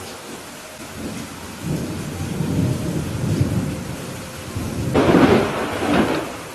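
Thunderstorm: steady rain with rolling thunder, a low rumble building from about two seconds in, then a louder, sharper thunderclap near the end that rumbles off.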